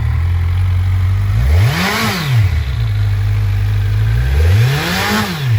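2019 Kawasaki Ninja 1000's inline four-cylinder engine idling, its throttle blipped twice: the revs rise and fall back about two seconds in and again near the end.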